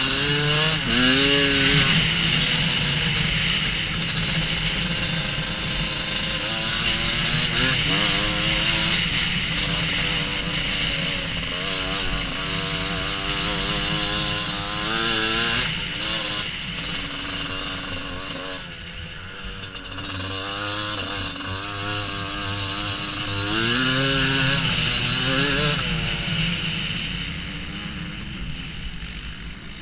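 Husqvarna WR250 two-stroke enduro motorcycle engine riding off-road, its buzzing note climbing and dropping in pitch again and again as the throttle is opened and eased. It goes quieter about two-thirds in and again near the end.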